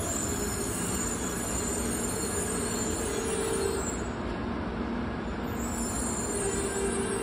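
Shinkansen train moving slowly through the station: a steady whine of several held tones over wheel and rail noise.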